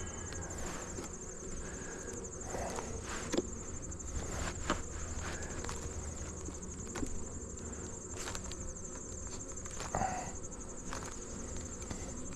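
A high, steady, finely pulsing insect trill with the hum of honey bees from an open hive beneath it. Several light clicks and knocks come from wooden hive frames being nudged into even spacing.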